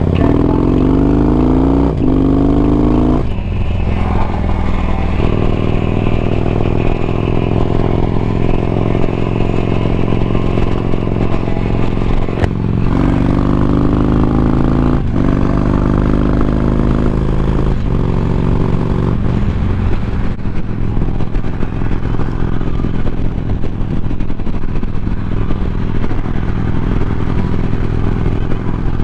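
Motorcycle engine accelerating up through the gears, its pitch climbing and then dropping at each shift, in a run at the start and another about 13 seconds in, with steady cruising between and after.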